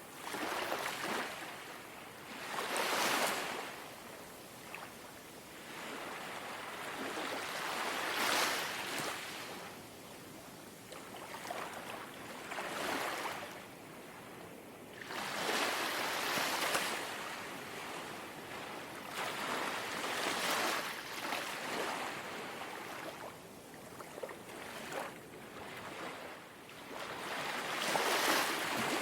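Small, calm sea waves lapping ashore: a soft hiss of water that swells and fades every few seconds, each wash breaking gently and draining away.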